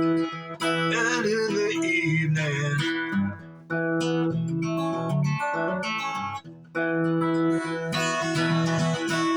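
Music: an acoustic guitar playing held chords, with a wavering higher melody line about a second in and again near the end.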